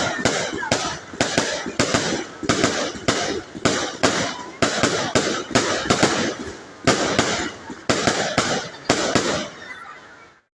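A rapid barrage of fireworks going off: sharp bangs about three a second with crackling between them, tailing off near the end.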